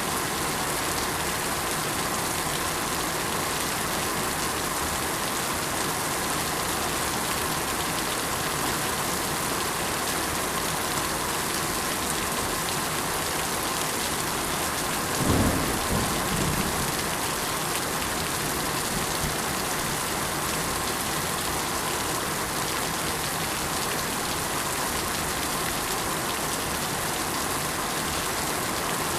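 Steady rain falling on surfaces. About halfway through, a brief low rumble of thunder lasts a second or two.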